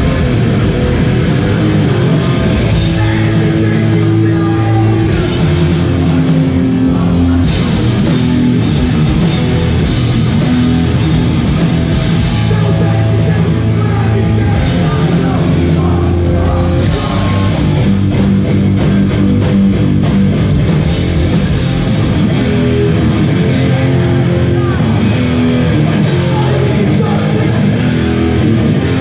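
Hardcore band playing live: loud distorted guitars, bass and drums, with vocals. The cymbal crashes stop about three quarters of the way through while the guitars and bass carry on.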